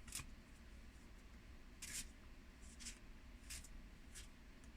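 Cards being handled on a table: about five brief, soft rustles and slides, the loudest about two seconds in, over a faint low room hum.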